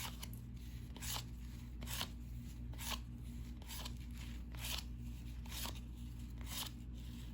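Cardboard trading cards being flipped through one at a time: a short, crisp sliding snap about once a second as each card is moved off the stack.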